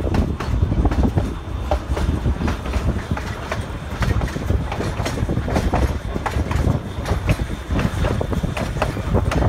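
Narrow-gauge passenger train rolling along the track: a steady low rumble from the cars with frequent, irregular clicks and knocks of wheels on rail joints.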